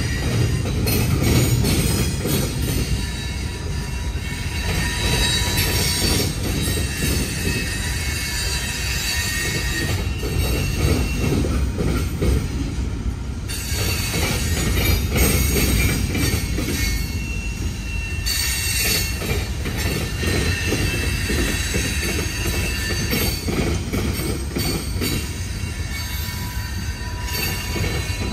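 Freight cars of a Norfolk Southern train rolling past: a steady rumble of wheels on rail, with high-pitched wheel squeal that comes and goes.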